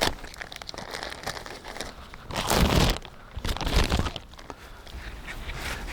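Crinkling, rustling handling noise, with two louder rustling bursts about two and a half and three and a half seconds in.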